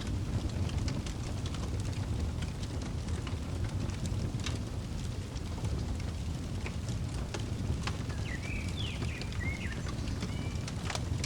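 Crackling wood fire: scattered sharp pops and snaps over a steady low rumble. A bird chirps a few short notes late on.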